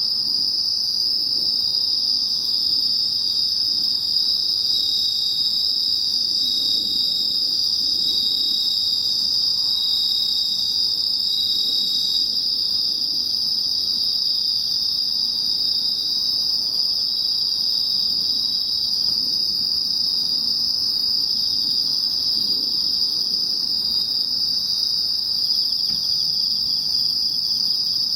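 Autumn night insect chorus of Japanese bell crickets (suzumushi) and field crickets (koorogi): a continuous, steady high-pitched trilling, with a fainter chirping that swells and fades every couple of seconds.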